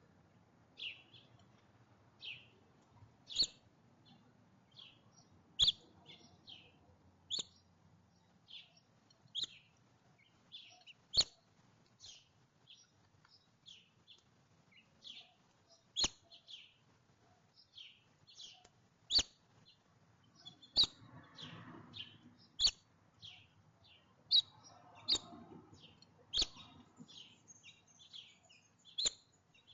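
Small songbirds chirping over and over, short high single chirps about one a second, with a few sharp taps now and then.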